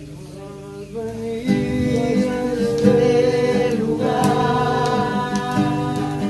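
Christian worship music: voices singing over acoustic guitar. It comes in fuller and louder about a second in.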